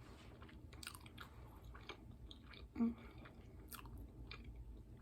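A person chewing a juicy taco: scattered wet mouth clicks and smacks, with one short hum about three seconds in.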